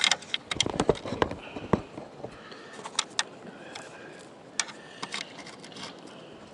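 Handling noises of an antenna cable being fed through a small hole: scattered clicks, knocks and rubbing, busiest in the first two seconds with a few low thumps, then sparser.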